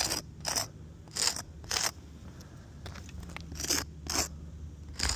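Short, crisp scrapes on the flat roof's surface, mostly in pairs about half a second apart, repeated four times.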